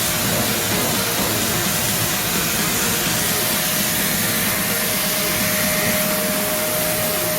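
High-pressure washer spraying water onto air-conditioner parts, a steady hiss, with a steady hum joining about halfway through.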